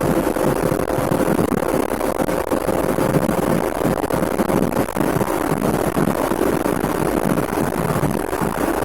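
Lada Priora's VAZ-21126 1.6-litre 16-valve engine, with the catalytic converter replaced by an insert, heard from inside the cabin while driving at a steady speed: an even engine drone mixed with road and wind noise.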